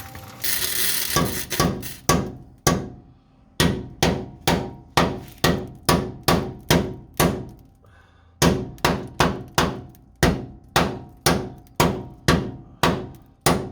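Hammer blows on a steel chassis-stiffening piece, about two a second, with a short metallic ring after each, knocking it in toward the car's frame rail. The blows pause briefly a little past halfway, then carry on at the same pace.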